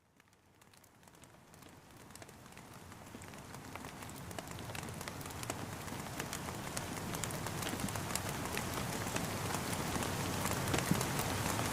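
Steady rain falling, a dense even patter with many single drops tapping through it, fading in from silence over the first several seconds.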